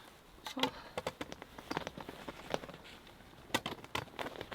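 Scattered light clicks and taps of screws and a stove-pipe port's fitting being handled and screwed onto the tent wall, with a small cluster of clicks near the end.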